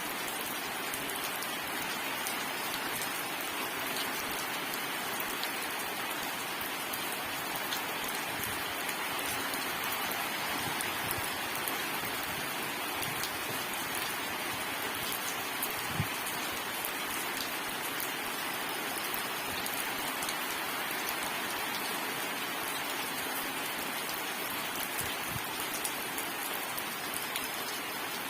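Steady rain falling on surfaces, an even hiss with scattered heavier drops landing as short low thuds, one standing out about halfway through.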